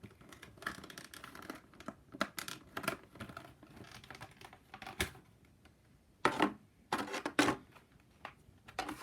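Packaging of a diecast model airliner being handled as the model is taken out of its box: a run of small clicks and taps, a sharp knock about five seconds in, and two louder rustling scrapes a second or two later.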